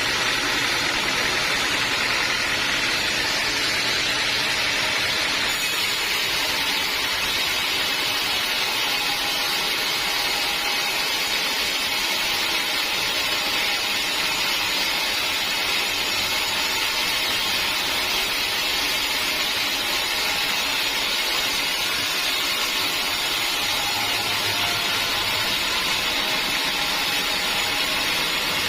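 Sawmill running steadily: a constant hissing machine noise from the saw and its motor, with no pauses or separate knocks.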